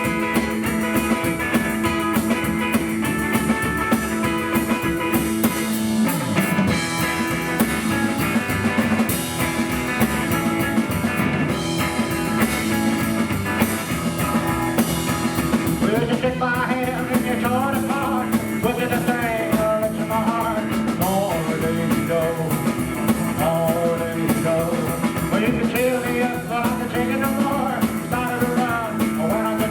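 Live rockabilly band playing: electric guitar over double bass and drums.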